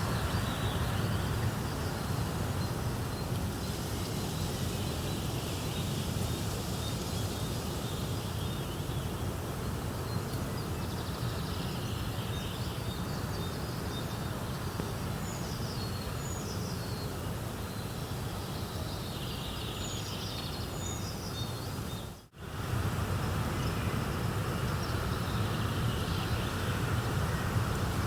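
Steady nature ambience with a low rumbling noise bed and small birds chirping now and then; the sound drops out for a moment about three-quarters of the way through.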